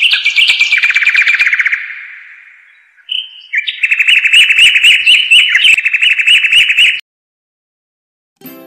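Bird song: two loud phrases, each a short note followed by a fast, even trill at a fairly steady pitch, the second phrase cutting off abruptly about seven seconds in. Faint music begins just before the end.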